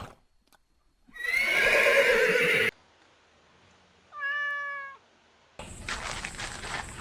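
Animal calls in separate short clips with silent gaps between them. A rough, drawn-out call begins about a second in and lasts about a second and a half. A clear, higher-pitched call comes about four seconds in, and another noisy call starts near the end.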